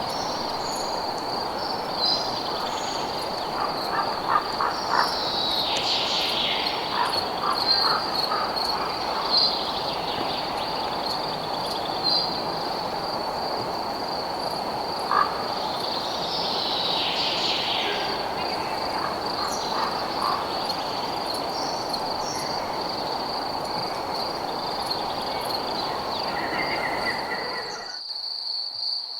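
Night chorus of frogs croaking over a steady high-pitched cricket trill, with scattered short calls above them. About 28 s in the frog chorus cuts off suddenly, leaving the crickets alone.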